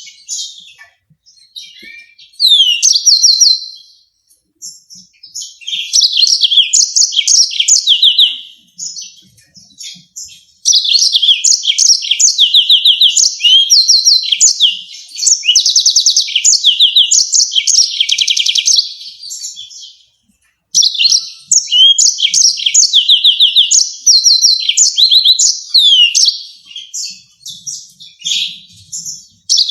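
Yellow-fronted canary singing: long rolling runs of fast, high trills and repeated sharp sweeping notes, with brief pauses about four seconds in and again about twenty seconds in.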